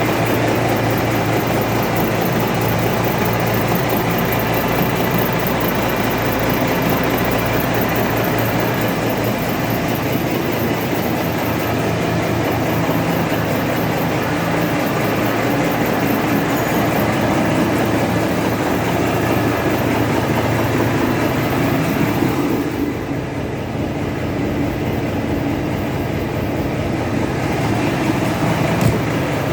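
Cummins NTA855 turbocharged inline-six diesel engine running steadily while being run in after repair; it gets slightly quieter and duller about three-quarters of the way through.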